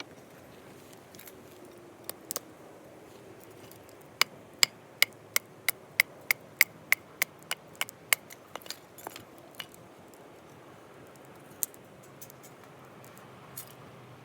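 A quick, even run of sharp clicks, about three a second for some four seconds, thinning out into a few weaker, irregular clicks.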